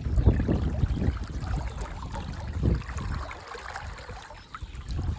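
Wind buffeting the microphone in uneven gusts, with flowing river water beneath; the wind eases about three seconds in and picks up again near the end.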